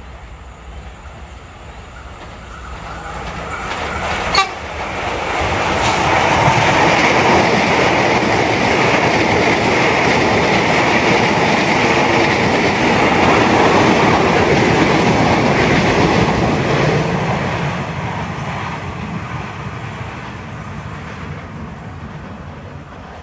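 A KRL electric commuter train (electric multiple unit) passes close by. Its wheels rumble and clatter on the rails, building as it approaches, staying loud for about ten seconds as the cars go past, then fading as it moves away. A single sharp click comes about four seconds in.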